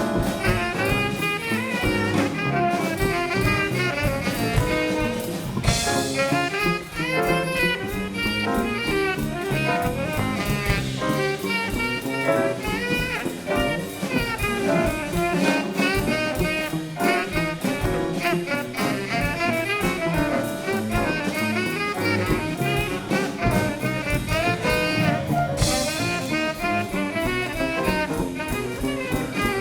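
Live band playing upbeat jazz, with saxophone and other horns carrying the melody over a drum kit.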